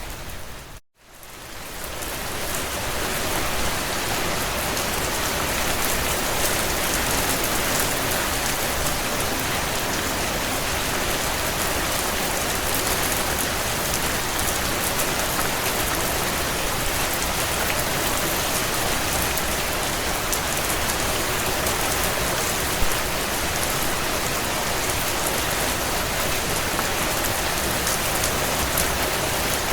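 Steady heavy rain beating on a window. About a second in the sound cuts out to near silence and fades back up over the next couple of seconds. There is one sharp pop later on.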